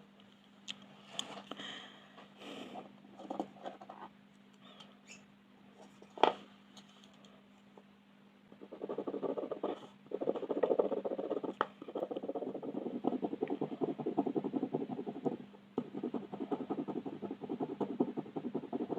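Colouring strokes scratching on paper: scattered light taps and scratches, with one sharp click about six seconds in. About nine seconds in, fast, continuous back-and-forth shading strokes start and run on, with a brief pause near sixteen seconds.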